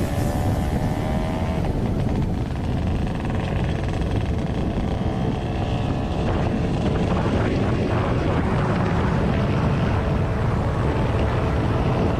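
Motor scooter engine running on the move under a heavy, steady rush of wind and road noise.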